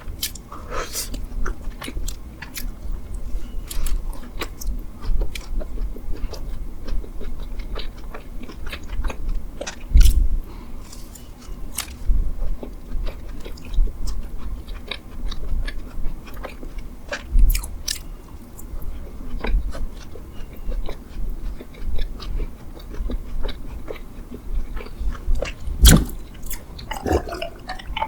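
Biting and chewing of a mammoth bread, with many small wet mouth clicks and smacks. A few louder low thumps come about ten seconds in, midway, and near the end.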